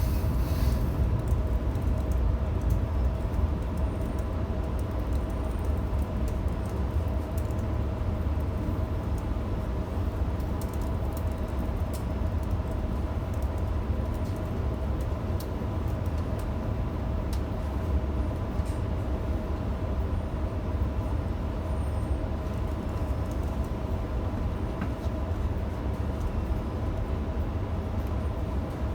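Electric passenger train running, heard from inside the carriage: a steady low rumble with a faint steady whine and occasional light clicks and rattles.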